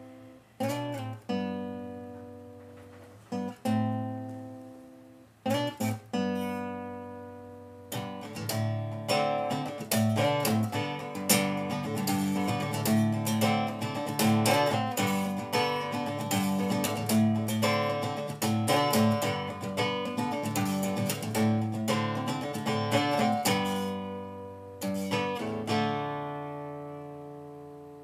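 Solo acoustic guitar instrumental break: a few single chords left to ring and die away, then about eight seconds in a run of fast picked and strummed notes that goes on for roughly sixteen seconds, ending on a long chord that rings out.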